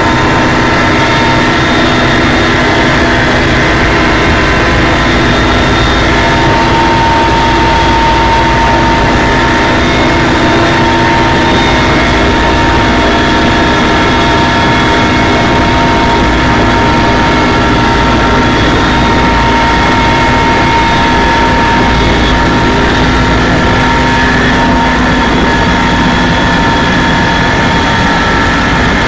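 Helicopter in flight: steady, loud engine and rotor noise with several steady whining tones over it.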